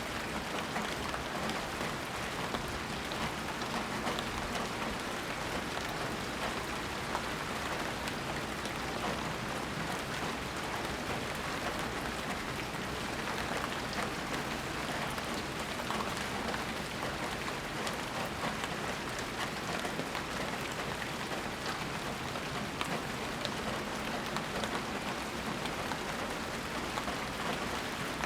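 Steady heavy rain falling, with many individual drops pattering on surfaces.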